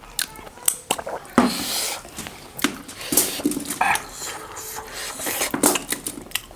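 Close-miked eating sounds: wet chewing and lip smacking as meat lollipops are eaten, many short clicks, and a short noisy stretch about a second and a half in.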